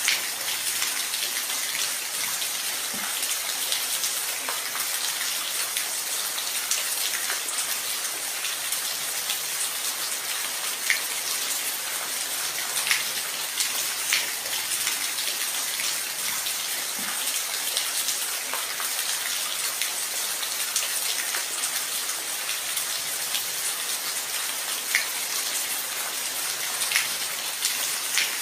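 Steady rain falling, an even hiss with scattered sharper drops landing on a surface.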